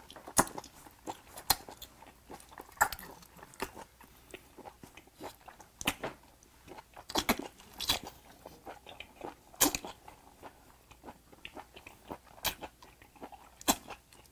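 A person biting and chewing a straw-fire-grilled whole small octopus pulled from a chopstick skewer, with irregular sharp mouth smacks.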